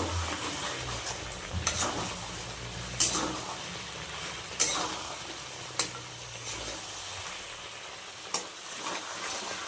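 Desi chicken sizzling as it fries down in spiced masala in a kadhai, stirred with a spatula that knocks and scrapes against the pan about five times. The masala is at the bhuna stage, cooked down just before water is added for the gravy.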